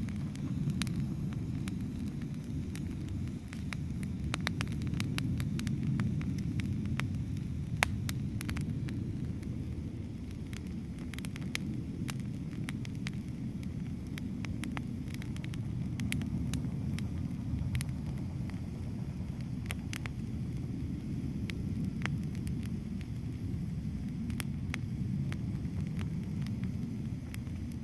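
Wood campfire crackling, with scattered small pops and one sharp pop about eight seconds in, over a steady low rushing sound.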